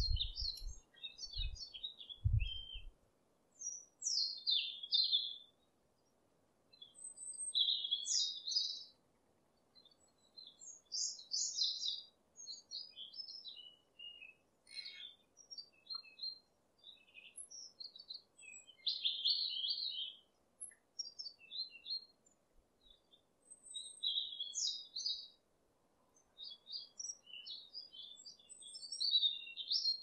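Songbirds chirping and twittering in short high phrases every second or two, over a faint steady hiss. A few low thumps sound in the first few seconds.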